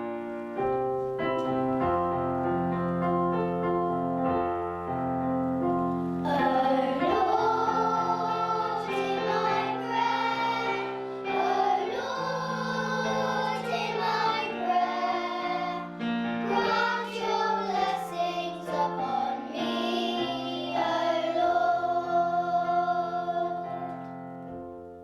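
Keyboard chords playing an introduction, then, about six seconds in, children singing a harvest song over the keyboard accompaniment.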